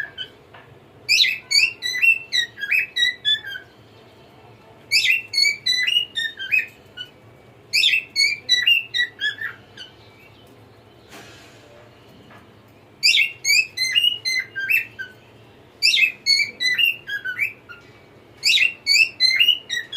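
A cockatiel singing: six short bursts of quick whistled notes, many falling in pitch, with brief pauses between them.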